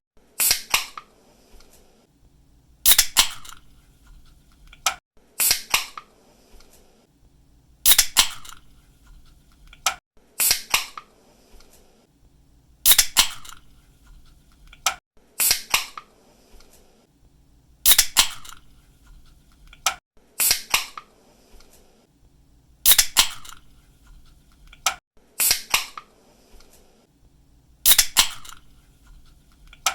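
Aluminium drink can's pull-tab being cracked open over and over: a sharp double pop, about every two and a half seconds, with a fainter click between pops.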